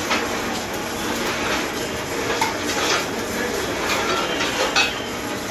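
Metal tools and parts clinking and tapping against each other, a few sharp ringing clinks over a steady workshop hum.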